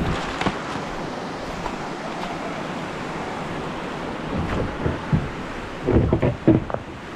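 Shallow creek water running with wind on the microphone, and a few dull knocks and splashes, the loudest a cluster about six seconds in.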